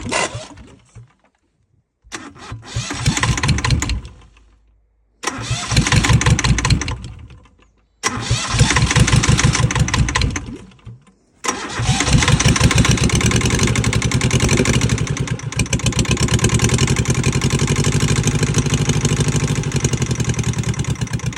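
Yanmar 2GM two-cylinder marine diesel being started: three times it catches, runs for two or three seconds and dies away, then about eleven seconds in it catches again and runs unevenly for about ten seconds before fading out near the end. This is an old engine barely running on its first start.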